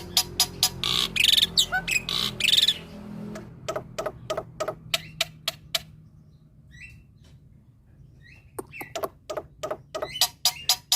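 Male black-winged myna (jalak putih) singing: fast runs of sharp chipping notes, with loud harsh calls about a second in. A quieter stretch with a few short whistles follows in the middle, then the rapid chipping returns near the end.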